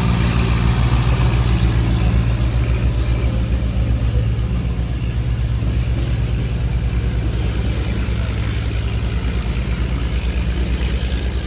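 Heavy vehicle engine running steadily at low revs with a deep, even pulsing throb, a little louder in the first few seconds.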